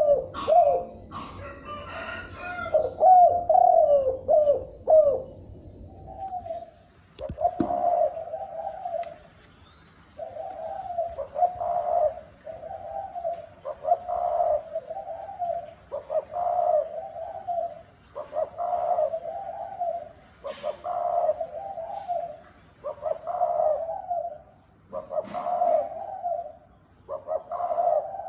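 Spotted dove cooing over and over: a quick run of coos at first, then regular low coo phrases about every one and a half to two seconds. A single knock about seven seconds in.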